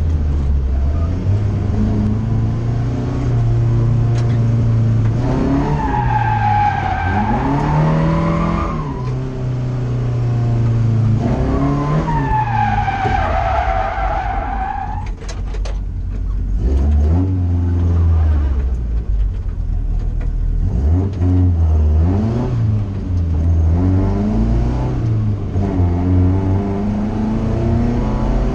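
Seat 1430's four-cylinder engine revving up and down under hard driving, heard from on board the car. Tyres squeal twice, for about three seconds each, starting about five and eleven seconds in.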